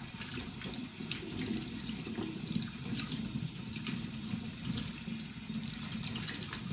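Tap water running and splashing over the plastic seat for the filters of a Shark vacuum as it is rinsed off in a sink.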